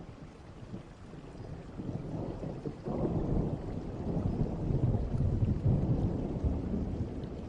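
Distant thunder rolling over rain. The low rumble builds about two seconds in, swells sharply at about three seconds and keeps rolling.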